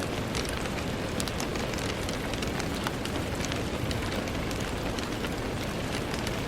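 Steady rain with many small drops ticking against a window pane over a constant hiss.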